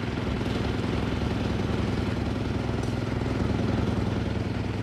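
An engine running steadily at an even speed, a constant low hum with a fast even pulse.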